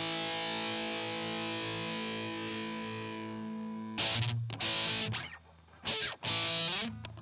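Electric guitar through a CoolMusic Insane Distortion pedal: a held, heavily distorted chord rings out and fades slowly. About four seconds in it gives way to short, choppy stabbed chords with brief silences between them.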